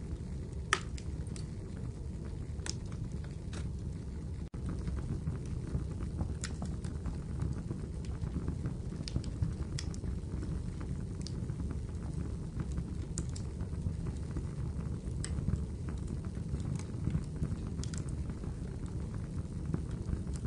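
Wood fire in a fireplace crackling: a steady low rumble of the flames with irregular sharp pops and snaps. The sound cuts out for an instant about four and a half seconds in.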